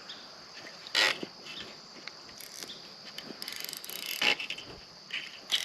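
Scattered clicks and scrapes from handling fishing tackle and a freshly caught fish, with a quick run of rapid clicking a little past the middle. Under it all runs a steady high insect chirring.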